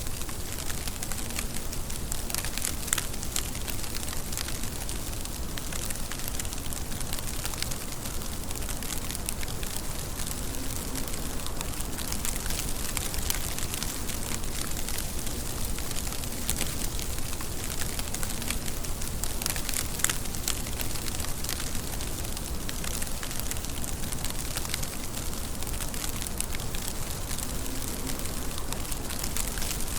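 Steady rain falling: a dense, even hiss with many sharp drop ticks scattered through it, a few louder ones standing out.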